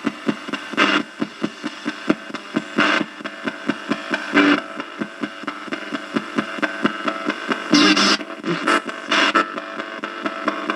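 Spirit box (ghost box) radio sweeping rapidly through stations: choppy static broken into quick stuttering pulses, with short fragments of broadcast sound bursting through a few times.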